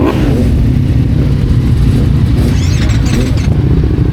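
Motorcycle engine running steadily under way, with a heavy low rumble.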